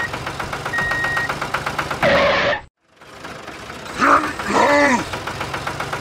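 Tractor engine chugging with a fast, even knock of about ten beats a second. Near two seconds in it is briefly covered by a short louder burst and then cuts out for a moment. It resumes, with a short voice-like sound over it around four to five seconds in.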